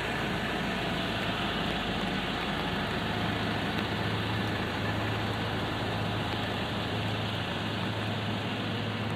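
Light rain on a city street: a steady hiss of rain mixed with the low drone of a vehicle engine idling. A steady low hum sets in about three seconds in.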